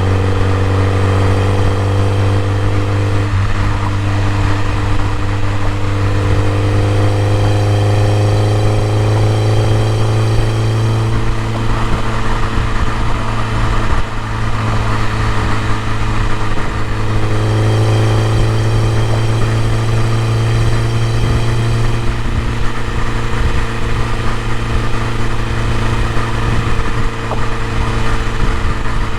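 BMW E30 M3's S14 four-cylinder engine running steadily, its pitch drifting slowly up and down a little.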